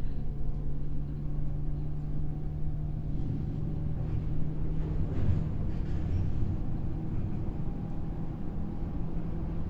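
Onboard running sound of a JR West 103 series motor car (MoHa 103-385): steady rumble of steel wheels on rail with the even hum of its MT55 traction motors and gearing at constant speed. About five seconds in, the rumble briefly swells.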